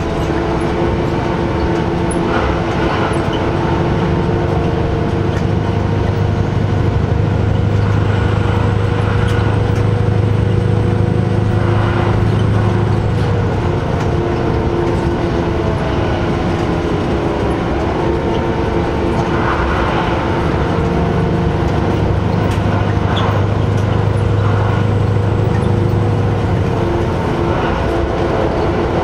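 Diesel railcar running along the line: a loud, steady engine drone, with a few faint knocks from the rails.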